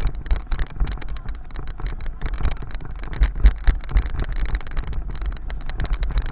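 Noise of a bicycle ride picked up by a camera on the bike: wind buffeting the microphone as a heavy rumble, with frequent small rattles and knocks from the ride over the road surface.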